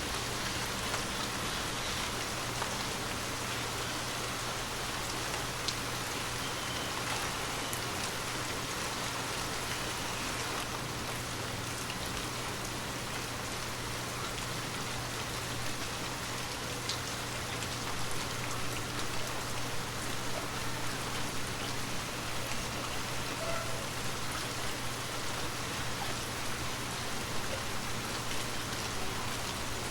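Steady gentle rain falling, an even hiss with scattered drops pattering on surfaces.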